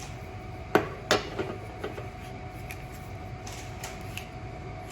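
Two sharp knocks about a second in, then a few lighter clicks and taps, over a steady low hum.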